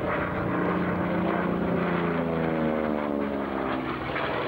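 P-51D Mustang's Merlin V12 engine and propeller passing by in a flypast, a steady drone whose pitch falls as it goes past about two seconds in.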